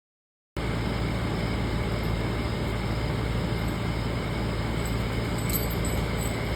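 Steady outdoor background noise with a low rumble and hiss, cutting in abruptly about half a second in after dead silence, with a few faint high ticks.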